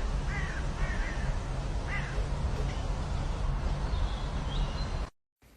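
A series of short harsh animal calls, each rising and falling in pitch, about five in the first two seconds, over a steady low outdoor rumble. The sound cuts off suddenly about five seconds in.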